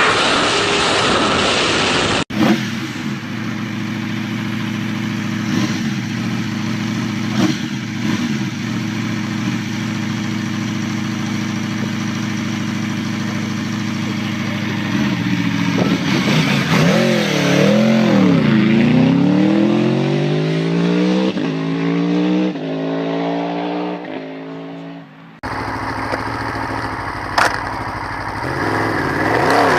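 High-performance motorcycle engine sounds in edited clips, with hard cuts between them. A steady engine note runs for a while. Then the engine revs up and down and climbs repeatedly in pitch, accelerating through the gears. After the second cut another engine revs.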